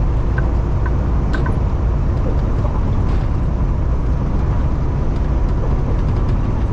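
Steady engine and road noise inside a Kenworth T680 semi-truck cab cruising on the highway, a deep even rumble with a couple of faint clicks in the first second and a half.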